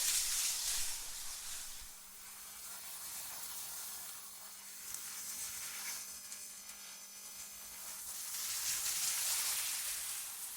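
AI-generated wind ambience: an airy hiss that swells in gusts at the start and again about eight to ten seconds in, thinning out in between, with a faint steady low hum underneath.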